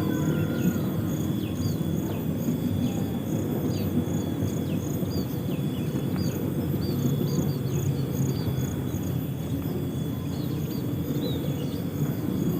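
Insects chirping in a steady pulsing rhythm, with scattered short falling bird chirps, over a loud, steady low noise.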